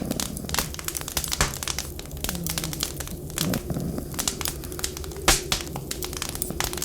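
Wood fire crackling, with frequent irregular snaps and one sharper pop near the end. Behind it, wind whistles in a low tone that slides up and down.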